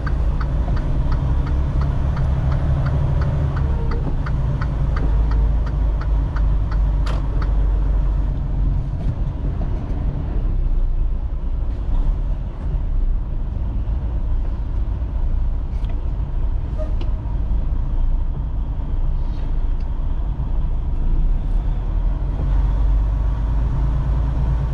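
Semi truck's diesel engine running steadily, heard from inside the cab, with the turn signal clicking about twice a second for the first several seconds before it stops.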